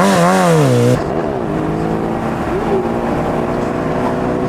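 Sport motorcycle engine revving, its pitch swinging up and down, then after an abrupt change about a second in, running at a steady note.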